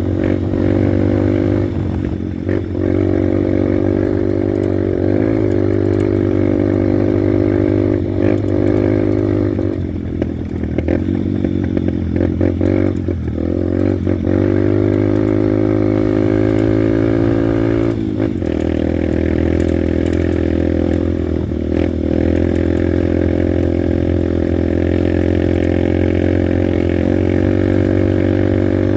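Honda Bros 150 motorcycle's single-cylinder four-stroke engine running steadily under way. The engine note wavers and eases off between about eight and fourteen seconds in, with a few light clatters, and settles again.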